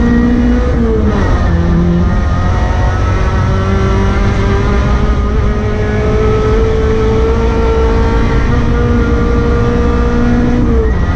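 Rally car engine running hard and loud. The pitch drops sharply about a second in at a gear change, then the revs climb slowly and drop again with another shift near the end.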